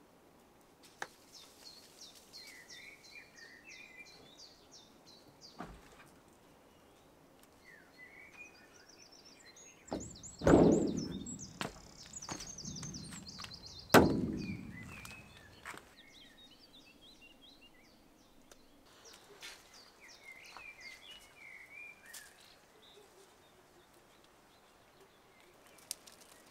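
Wild birds singing and chirping, with repeated high trills and short chirps. Two loud sudden thuds come about ten and fourteen seconds in, each dropping in pitch as it dies away.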